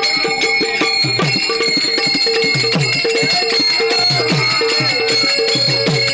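Devotional abhang accompaniment: hand cymbals ringing and a hand drum playing a fast, steady beat, some of its low strokes sliding down in pitch.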